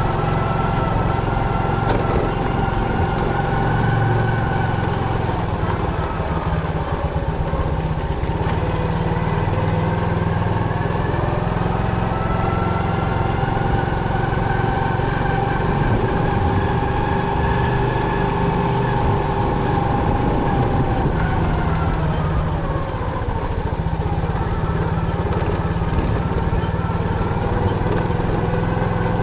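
Motorcycle engine running steadily, its pitch rising and falling slowly as the revs change.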